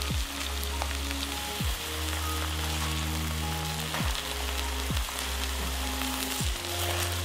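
Cabbage quarters sizzling in a little oil in a nonstick frying pan, a steady hiss as they are turned with tongs. Background music plays under it, with sustained low notes and a deep beat about every second or so.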